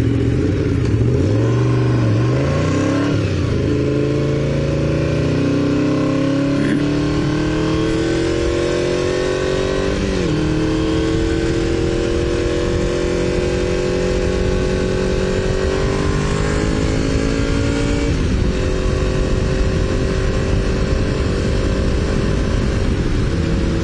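Honda VFR750's V4 engine pulling hard, its pitch climbing through the gears, with a shift dip about three seconds in and another about ten seconds in. After about eighteen seconds it drops and settles to a steady cruise, with wind rushing over the helmet microphone.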